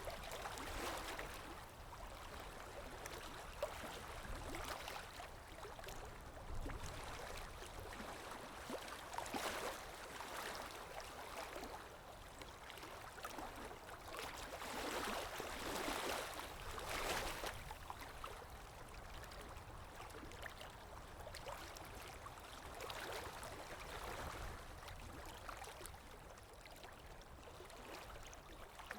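Underwater ambience: a low, steady rumble with muffled water movement and gurgling that swells and fades every several seconds.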